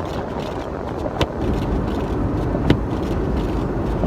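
A 1996 Ford Bronco running in four-wheel drive in deep snow, heard from inside the cab: a steady low rumble of engine and drivetrain that gets louder about a second and a half in as the truck works to pull out. A short sharp click comes about every second and a half over it.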